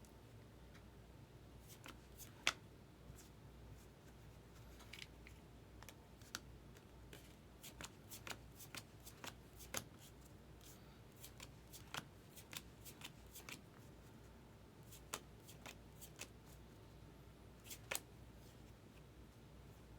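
Baseball trading cards being handled and flipped through one by one: faint, irregular light clicks and snaps of card stock against card stock, one sharper snap about two and a half seconds in.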